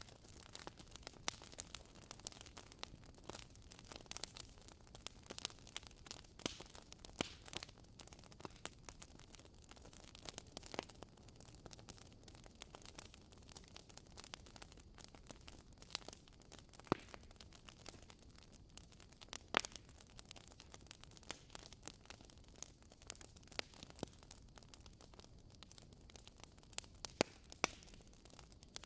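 Wood fire in a fireplace crackling: irregular sharp pops and snaps of burning logs over a soft steady hiss.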